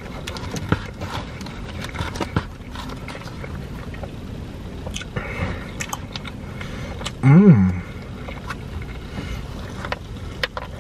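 A person chewing pizza close to the microphone, with frequent small wet clicks and smacks. About seven seconds in, a short hum rises and then falls in pitch.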